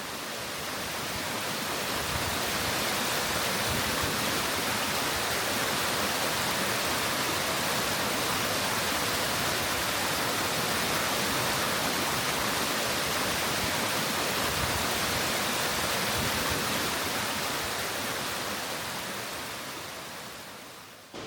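Waterfall: steady rushing of water falling down a hillside fall, fading out near the end.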